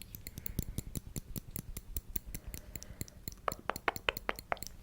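Small metal grooming tool clicking rapidly and crisply, about six clicks a second.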